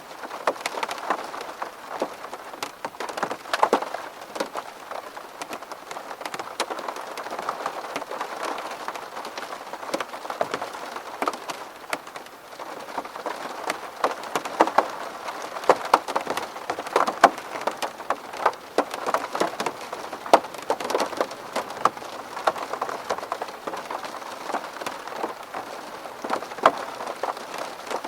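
Rain hitting a window pane: a steady wash of rain with many separate, sharp drop impacts scattered throughout.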